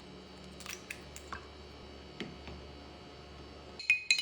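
Quiet room tone with a steady low hum and a few scattered faint clicks and taps; near the end, a quick run of sharp, ringing clinks.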